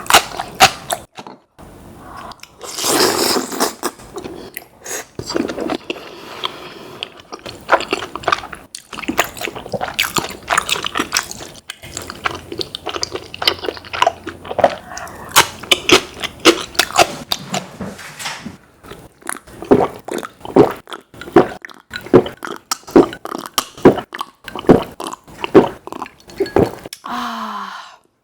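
Close-miked eating: a person biting and chewing food, with many irregular wet, crisp mouth clicks and smacks.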